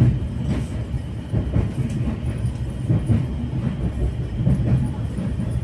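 Passenger train running, heard from inside a coach: a steady low rumble of wheels on the rails, with light irregular knocks.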